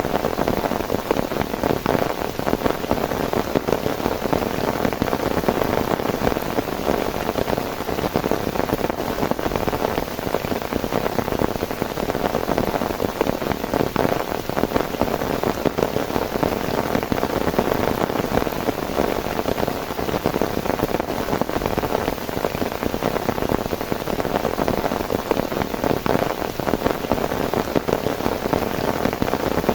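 Heavy rain falling steadily, a dense, even patter of countless drops with no let-up.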